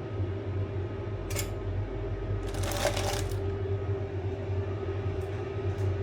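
Kitchen utensils clattering over a steady low hum: a sharp clink about a second in, a brief rattle near the middle, and a few light clicks near the end.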